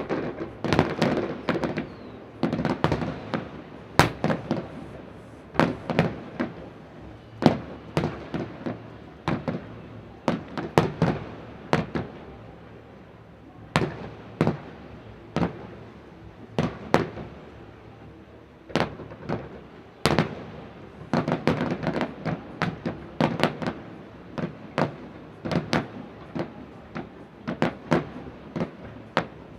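Aerial fireworks bursting in quick succession: many sharp bangs, some overlapping into rumbling volleys, with the booms echoing.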